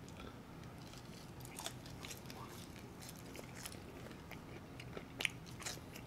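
A person chewing fries and chicken wings up close, with soft crunches and small wet mouth clicks scattered throughout, the sharpest click about five seconds in.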